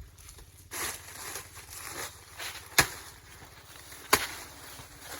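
Three sharp chops into a plantain stalk, a little over a second apart, the last right at the end, with fainter scuffing noises between them.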